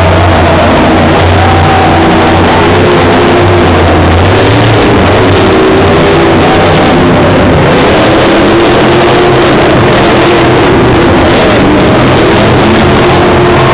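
Monster truck engine running very loud, its pitch rising and falling as it is revved.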